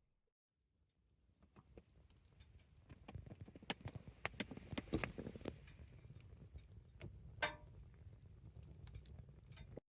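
Wood campfire crackling faintly, with irregular sharp pops and clicks that fade in about a second in.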